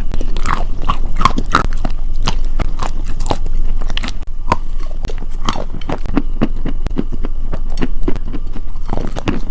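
Close-miked ASMR eating: crisp crunching bites and chewing of crunchy food, a dense, irregular run of sharp crunches.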